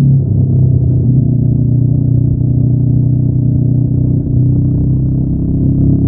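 Honda NX500's 471 cc parallel-twin engine, stock exhaust, running at fairly steady revs under way: a low, even drone.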